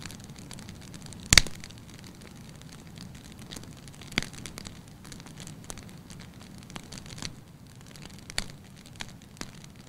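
Wood fire burning in a fireplace: a steady low rush of flame with scattered sharp crackles and pops, the loudest pop about a second and a half in and others near four and eight seconds.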